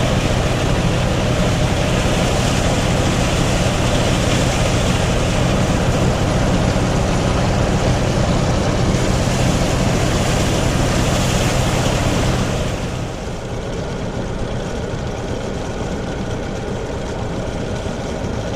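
Old-style rice threshing machine running steadily, its engine hum under a dense rushing noise. About thirteen seconds in, the level drops and the high rushing fades, leaving the machine running more quietly.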